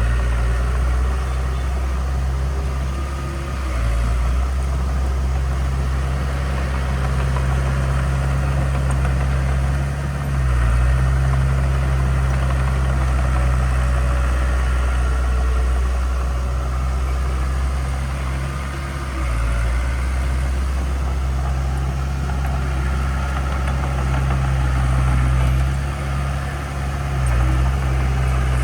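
Heavy diesel engine of earthmoving equipment running with a steady low rumble, its pitch and level dipping briefly about four times as the load changes.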